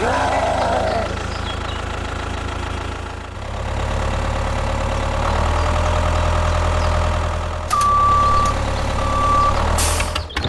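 Tractor engine running steadily at idle, getting louder a few seconds in, with two short beeps near the end.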